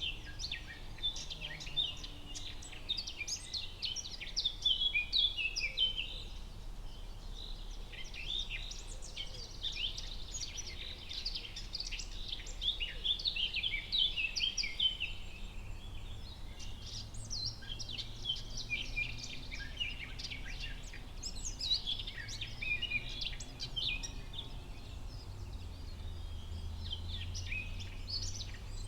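Forest ambience: many small birds chirping and singing at once, dense overlapping high calls coming in waves, over a faint low background hum.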